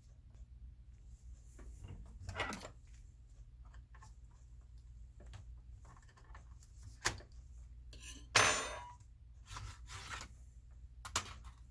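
Small hard laptop parts and tools being handled and set down, making scattered clicks and clinks. About eight seconds in comes a louder metallic clink that rings briefly, like a screw or small metal part dropped on a hard surface.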